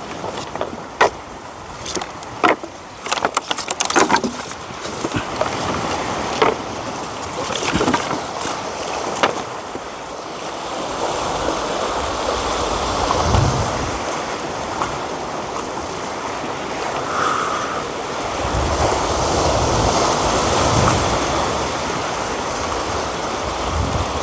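Several sharp knocks and cracks over the first few seconds, the sound of dry firewood being handled, then a steady rushing noise that swells and fades, with deep rumbling gusts in the second half.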